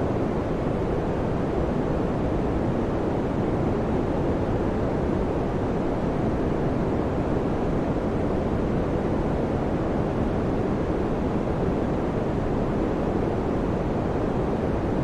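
Electric fan running steadily: a constant low, even whoosh of moving air with no change in level.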